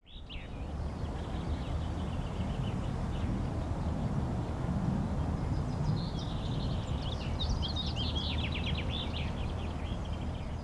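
Outdoor ambience of steady low background noise with small birds chirping; a quick run of rapid bird song comes about six seconds in and lasts some three seconds.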